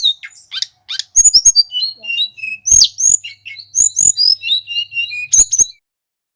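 Songbird singing a fast, busy run of high chirps and short whistled notes that stops abruptly about a second before the end.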